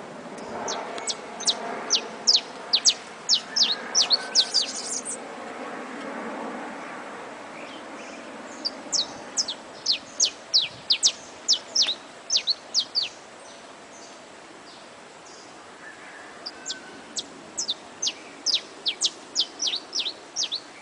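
A songbird singing three phrases of rapid, sharp, high notes that sweep downward, with a few seconds of pause between phrases. A lower, busier background sound runs under the first phrase and fades after about seven seconds.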